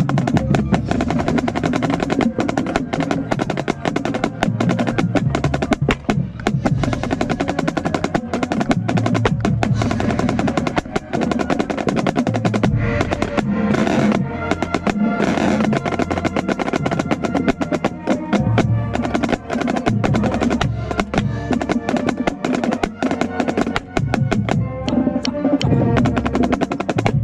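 Marching band playing, with a snare drum right at the microphone: rapid snare strokes and rolls loud over the band's held notes and low drums.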